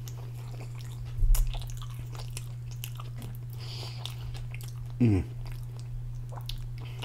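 A person chewing a mouthful of stuffed donair wrap close to the microphone, with wet mouth clicks and smacks. There is a dull thump about a second in and a short low vocal sound around five seconds in.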